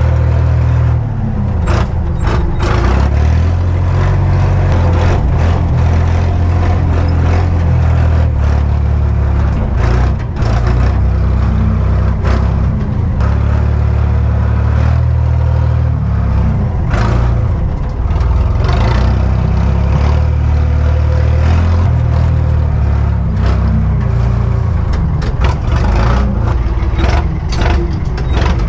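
Cummins diesel engine of an old dump truck running just after a cold start, its speed rising and falling several times as the throttle is worked. Frequent short sharp knocks and clicks sound over the engine.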